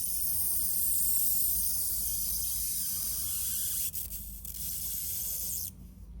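High-pitched steady hiss of the GL-431V13 negative ion generator's high-voltage static discharge. It dips briefly about two-thirds of the way through and cuts off suddenly near the end.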